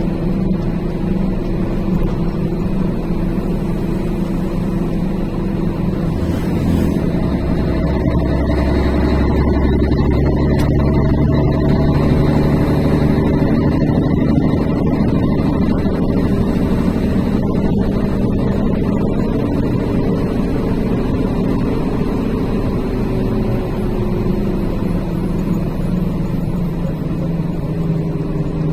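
Heavy truck's diesel engine running steadily, heard from inside the cab while coming down a mountain grade. Its low note changes and grows stronger about seven seconds in, and the engine tone sinks slowly later on.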